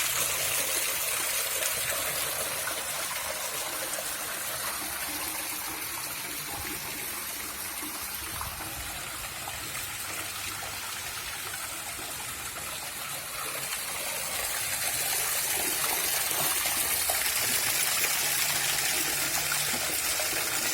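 Water from a built garden waterfall running steadily, splashing and trickling, a little softer in the middle and louder again about two-thirds through.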